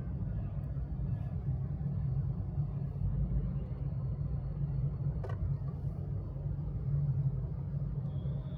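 Steady low engine rumble, with a single faint click about five seconds in.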